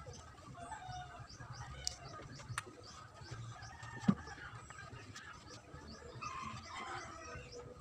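Birds chirping and fowl clucking in the background over a low rumble, with a few light taps and one sharp knock about four seconds in.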